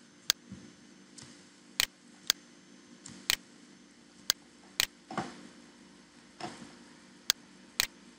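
Computer mouse clicking: a run of about eight sharp, separate clicks, several coming in pairs about half a second apart, over a quiet room background.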